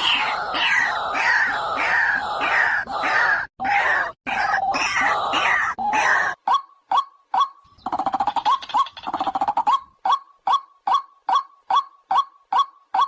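White-breasted waterhen calling: about six seconds of loud, harsh, overlapping croaking calls, then a steady run of short, clipped notes about two a second, broken by a couple of longer rising notes.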